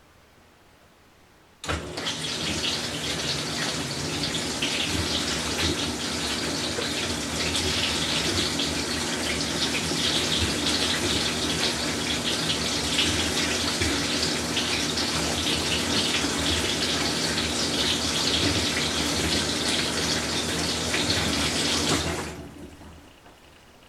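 Whirlpool Cabrio washing machine letting water into the tub: a rush of water with a steady hum underneath starts suddenly about two seconds in. It runs for some twenty seconds, then dies away shortly before the end.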